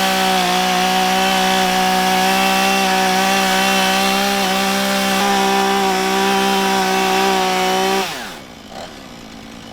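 Chainsaw running at full throttle, cutting off a wooden pole barn post. About eight seconds in, the throttle is released and the engine pitch falls away as it winds down.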